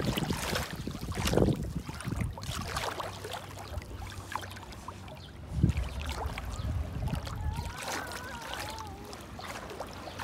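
Seawater washing and splashing in surging rushes, with a faint wavering high tone near the end.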